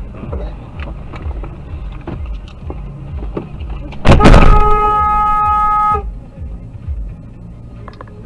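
A car interior's low road rumble, then a sudden loud bang about four seconds in, followed at once by a car horn held steady for nearly two seconds that cuts off abruptly.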